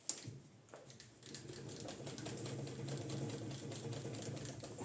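A sharp click, then the Maximat lathe running from about a second in: a steady low hum with a fast, dense rattling tick over it.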